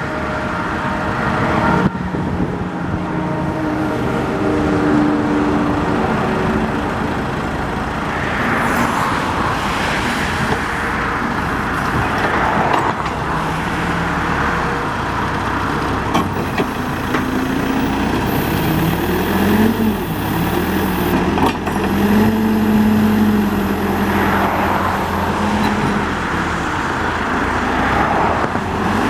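Caterpillar 426C IT backhoe loader's turbocharged diesel engine running, its pitch rising and falling as the engine is revved up and down several times.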